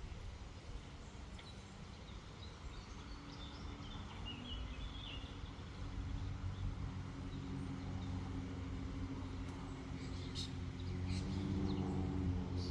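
A motor engine's low hum that grows louder through the second half, with small birds chirping briefly over it.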